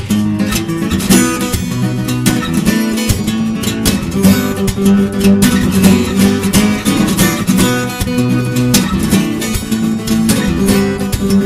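Acoustic guitar played fingerstyle: a melody picked over a steady bass line, with many quick plucked notes ringing together.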